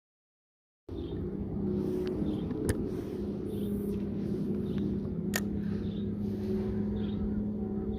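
Minn Kota electric motor of an Old Town Sportsman 106 motorized kayak running steadily under way, a low even hum that starts abruptly about a second in. Two sharp clicks sound over it, a few seconds apart.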